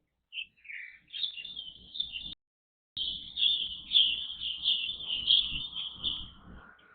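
Songbirds chirping in a rapid, continuous run of high notes after a few short opening calls. The run breaks off abruptly for about half a second just past two seconds in. A low rumble sits underneath.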